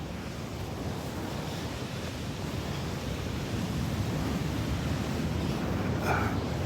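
Steady rushing of surf and wind on the microphone, swelling slightly past the middle.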